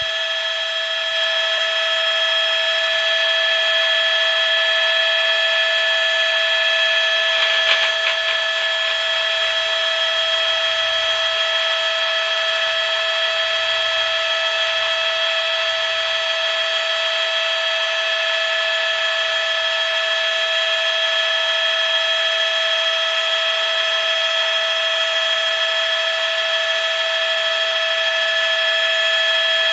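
A steady, high motor-like whine made of several fixed tones over a hiss, unchanging throughout, with a brief faint crackle about eight seconds in.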